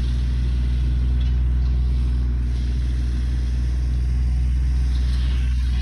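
Tractor engine running steadily at a constant speed: a low, even drone with no change in pitch or load.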